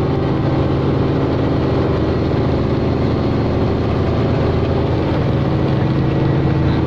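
Helicopter running steadily: a loud, even drone of engine and rotor with a stack of steady low tones, unchanging throughout.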